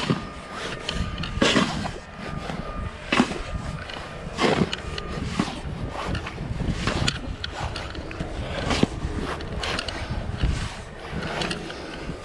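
Footsteps trudging through deep snow, a crunch every second or two, over a low rumble of wind on the microphone.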